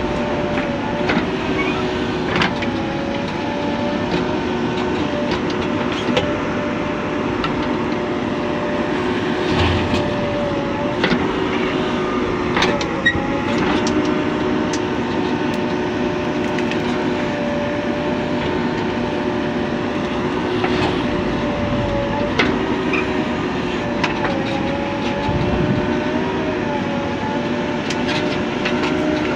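Heavy diesel engine running steadily, its note wavering slightly, with scattered clanks and rattles throughout.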